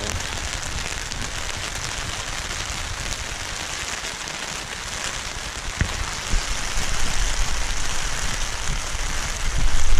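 Steady rain falling, an even hiss, under and around a fishing umbrella. A low rumble grows stronger after about six seconds.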